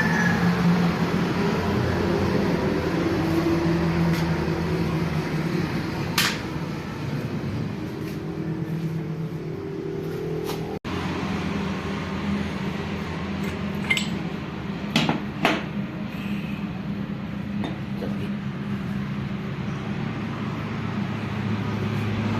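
A steady low engine drone, with sharp metallic clinks about six seconds in and a cluster of three more near the middle of the second half.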